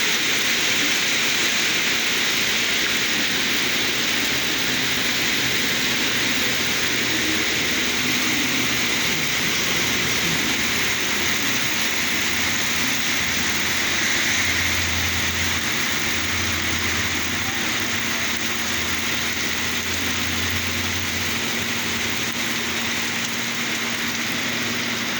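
Heavy rain pouring down steadily in a dense, even hiss. A vehicle's low engine rumble joins in the middle stretch and fades again.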